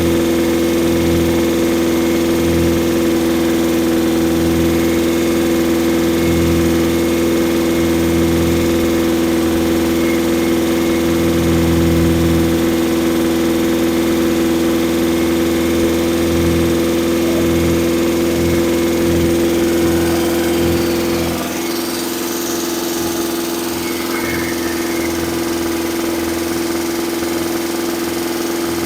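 Rebuilt pushrod engine running steadily at a high idle during its camshaft break-in. About 21 seconds in, the sound drops slightly in level and its low rumble thins out.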